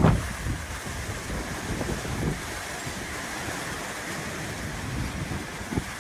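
Strong gusty wind blowing and buffeting the microphone with low rumbling surges, the strongest right at the start.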